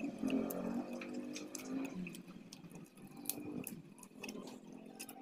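Close eating sounds of people chewing grilled chicken by hand: scattered small wet clicks and lip smacks, with a faint murmur of voices in the first two seconds.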